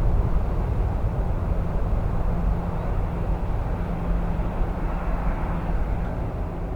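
Steady low rumble of jet airliner engines, with strong wind buffeting the microphone.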